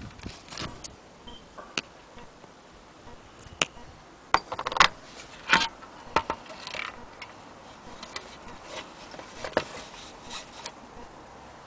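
Irregular light clicks, taps and rubbing of objects being handled, the loudest cluster a little before the middle.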